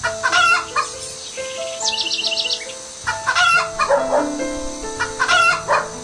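Slow instrumental music with sustained notes, over which a domestic fowl calls three times. A quick trill of high bird chirps comes about two seconds in.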